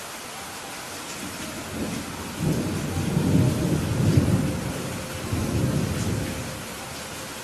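Steady rain falling, with a low rolling rumble of thunder that builds about two seconds in, swells twice and dies away near the end.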